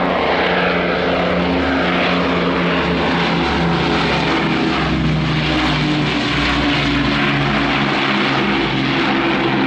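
Propeller-driven piston engines of a formation flypast: the Avro Lancaster's four Rolls-Royce Merlins with a Hurricane and a Spitfire. They make a loud, steady multi-engine drone whose pitch drifts slightly as the aircraft pass.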